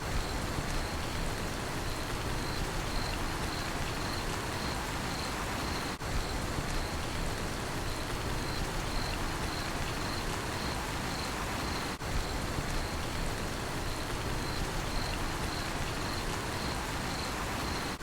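Steady rain with a cricket chirping in an even, rapid pulse over it. The rain briefly dips twice.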